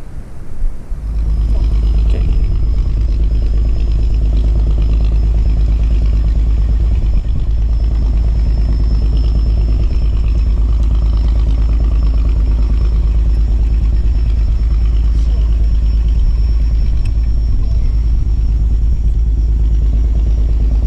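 A small engine running steadily, coming up about a second in, with wind buffeting the microphone.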